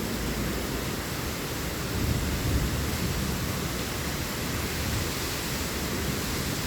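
Heavy rain pouring down in a steady hiss, with a low rumble swelling briefly about two seconds in.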